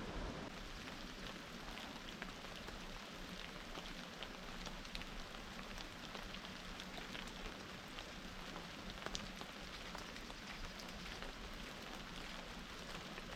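Rain falling steadily, with many sharp ticks of single drops striking a surface scattered through it.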